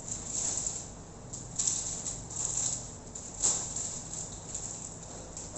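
Hands pressing and smoothing sheets of fresh pasta dough on a work surface to seal the filled edges: soft scuffing and brushing with a couple of sharper taps, over a steady low hum.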